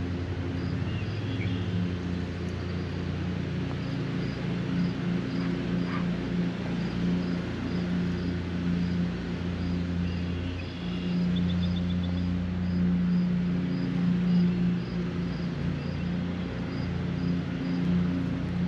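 A low, steady motor hum, like distant traffic, under the hiss of rain, with a high chirp repeating evenly throughout and a brief bird trill about twelve seconds in.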